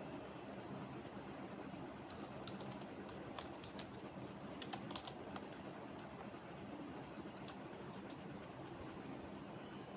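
Computer keyboard typing: scattered short runs of keystrokes, most of them in the middle seconds, over a faint steady low hum.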